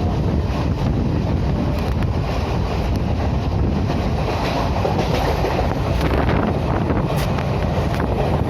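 Passenger train running at speed, with a steady, loud rumble of wheels and carriages on the track and some wind on the microphone.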